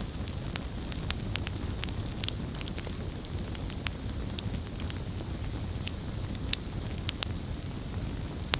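Campfire crackling: irregular sharp snaps and pops, several a second, over a steady low rumble.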